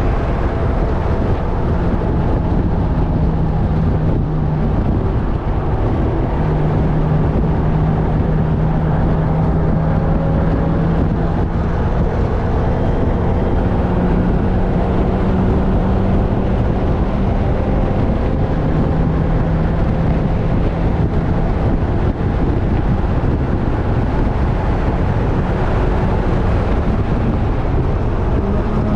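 Car engine running hard during a track lap, its note holding steady and changing pitch a few times, under heavy wind and road noise.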